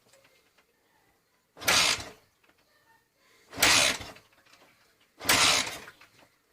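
Honda XL125S four-stroke single-cylinder engine being kick-started with a new carburettor fitted: three separate kicks, each turning the engine over in a short burst, roughly every second and a half to two seconds, without it catching.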